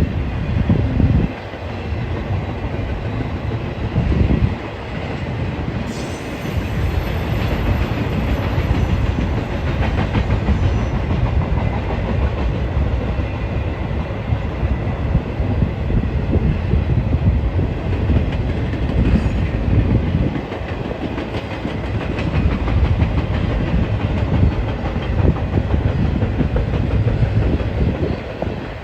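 A train rolling past, its steel wheels clacking over the rail joints with a steady rumble.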